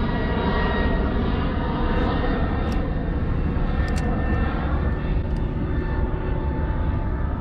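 Airplane passing overhead: a steady engine rumble with faint whining tones that drift slowly in pitch. A couple of sharp clicks come about three and four seconds in.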